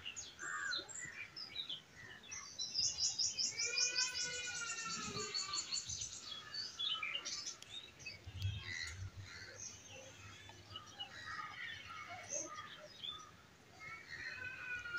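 Birds chirping and calling, with a fast high trill about three seconds in.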